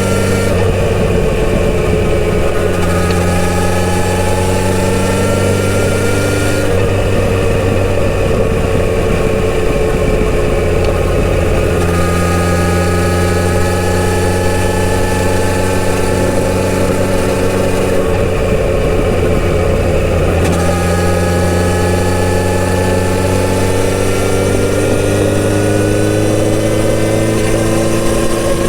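Kawasaki Z900RS inline-four engine running through its stock exhaust. The engine note drifts slowly up in pitch in stretches and shifts several times.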